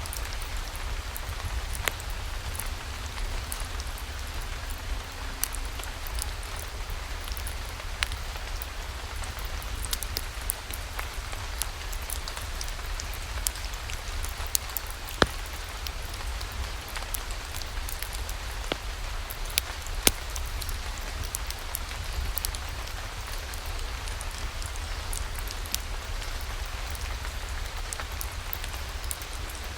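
Steady rain falling, with scattered sharp clicks and crackles over the hiss and a low rumble underneath.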